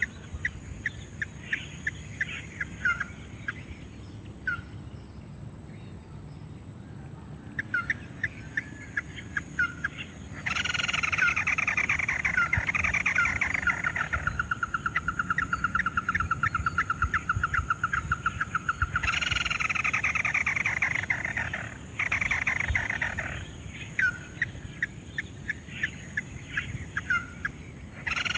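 Crake calls: series of short, sharp chirping notes. From about ten seconds in, a louder passage sweeps down and runs into a fast, even trill that stops abruptly around nineteen seconds.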